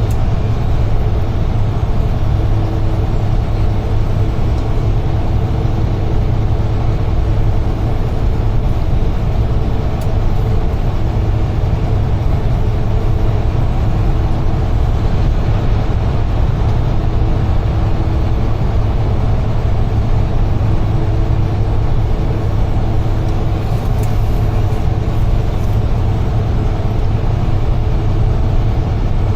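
UD Trucks Quon heavy truck driving: a steady low diesel engine drone and road noise, heard from inside the cab.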